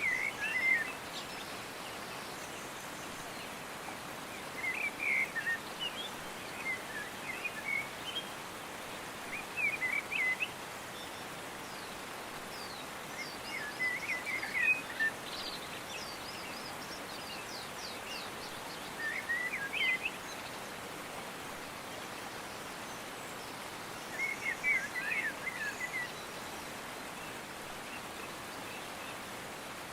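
A bird singing short chirping phrases every few seconds over a steady background hiss.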